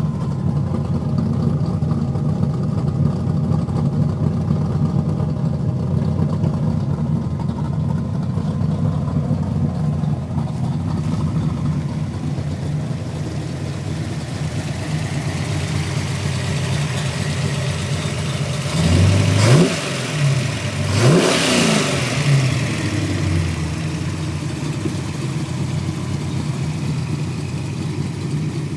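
Ford 5.0 V8, bored .030 over with a Trick Flow stage 2 cam and an Offenhauser dual-four-barrel tunnel ram on two Edelbrock 600 carburetors, idling steadily. It is blipped twice about two-thirds of the way through, the revs rising and falling quickly each time, and then settles back to idle.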